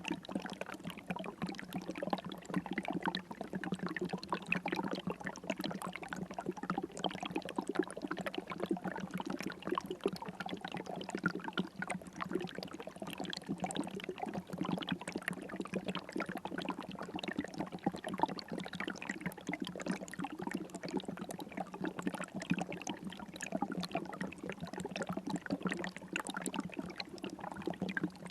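River water flowing steadily, a continuous babbling trickle with no pauses.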